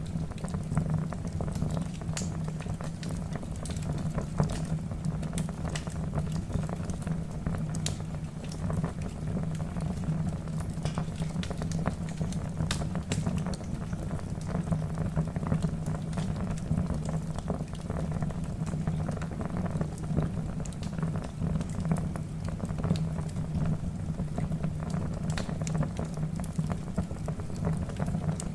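Wood logs burning in a fireplace, with frequent sharp crackles and pops over the steady low sound of the flames.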